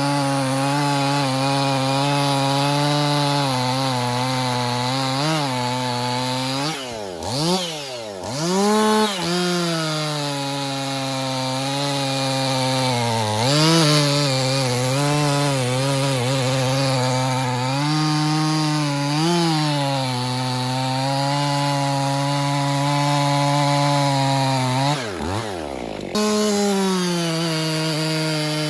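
Husqvarna 55 two-stroke chainsaw running under load while cutting through a log, its engine note mostly steady. The note dips and recovers briefly several times, sagging deeply and returning about a quarter of the way in and again near the end.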